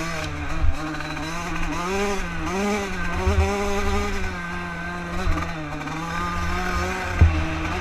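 Bored-out Yamaha YZ Supermini two-stroke dirt bike engine being ridden, its pitch rising and falling repeatedly with the throttle. A few low thumps come through, about a second in and near the end.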